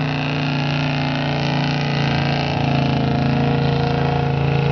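Mud-bogging truck engine running hard and steady at high revs, a little louder in the second half.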